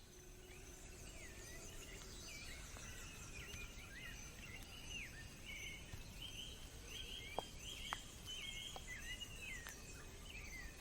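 Faint forest ambience: small birds calling over and over with short swooping chirps, over a low steady hiss. Two faint clicks come a little after the middle.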